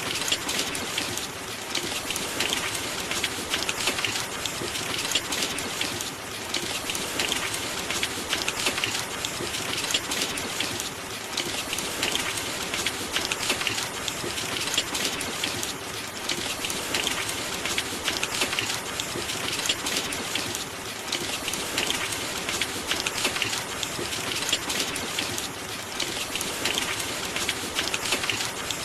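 Steady heavy rain: a dense hiss of many raindrops that swells and eases every few seconds.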